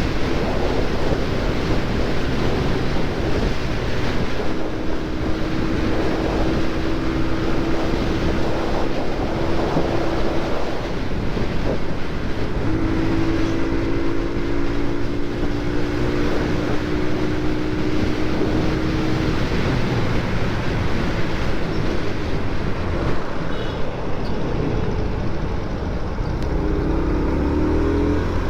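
Motorcycle riding at road speed: steady wind rush over the helmet-mounted camera's microphone together with the engine running. A steady hum comes in about four seconds in and again about thirteen seconds in, each lasting about six seconds.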